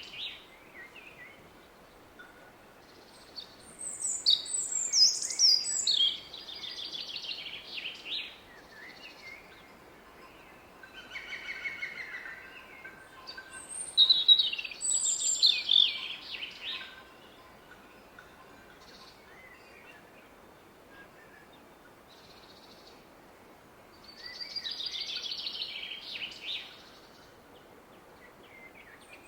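Woodland songbirds singing in short, bright phrases, four or five bursts spread over the half minute. Beneath them runs a faint, steady rush of a distant river.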